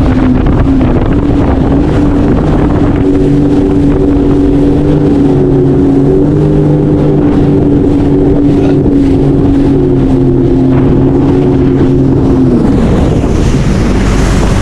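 Three-seater Sea-Doo jet ski running at speed, its engine note steady with a slight lift midway, then dropping away near the end. Wind rushes over the microphone.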